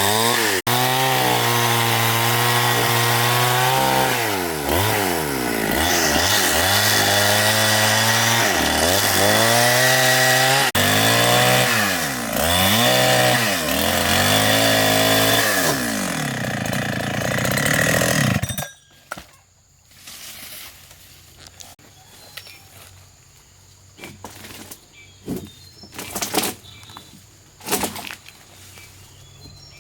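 Chainsaw cutting through wood, its engine pitch sagging under load and picking up again several times, until it shuts off about two-thirds of the way through. A few sharp knocks follow.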